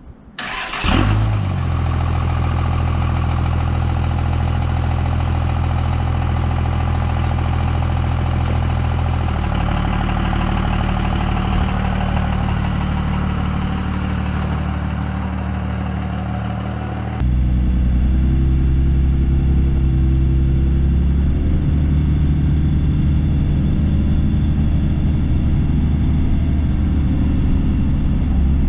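A motor vehicle's engine running steadily. Its pitch shifts about ten seconds in, and the sound changes abruptly about 17 seconds in.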